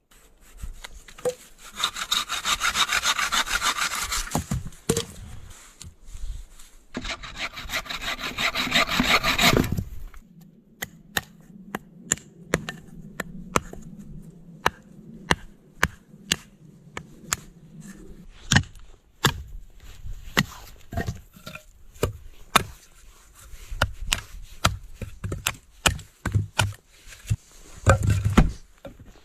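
A hand saw cutting through wood in two bouts of quick back-and-forth strokes, each a few seconds long. These are followed by a run of scattered sharp clicks and knocks.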